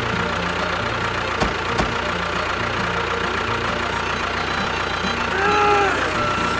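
Small tractor engine idling with a steady chug. There are two short clicks about a second and a half in, and a brief squeal that rises and falls near the end.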